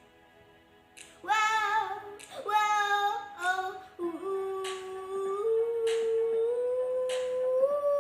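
Wordless singing by a female voice, humming and vocalising a melody. It starts about a second in and ends on a long held note that rises slightly. Light sharp clicks keep time about once a second.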